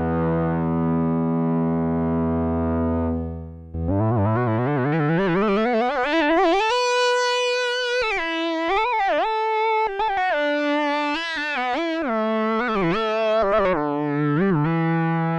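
Sequential Take 5 analog synthesizer playing presets. A held low, buzzy note stops a little under four seconds in. A lead sound then glides upward and plays a bending, wobbling melody, with a falling glide near the end.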